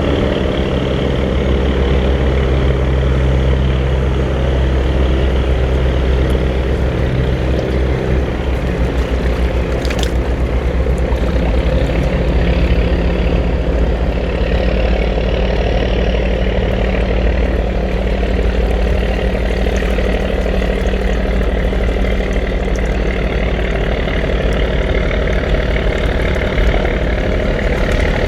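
Boat engine running steadily, its tone shifting about eight seconds in.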